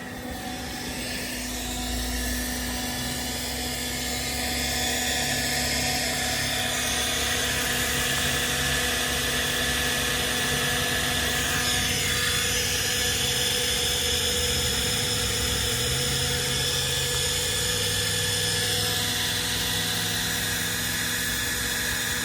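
A motor running steadily, with a constant drone and a whine that holds its pitch.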